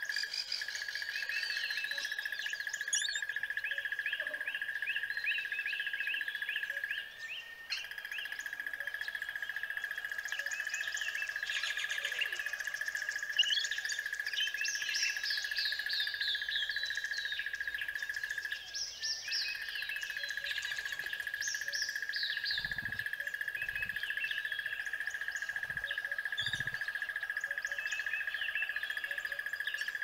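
Many birds chirping and twittering, with quick falling trills, over a steady high-pitched tone that breaks off briefly twice.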